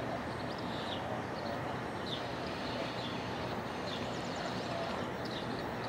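Steady outdoor background noise with a bird chirping repeatedly: short, high, downward chirps about once a second, and a quick high trill about four seconds in.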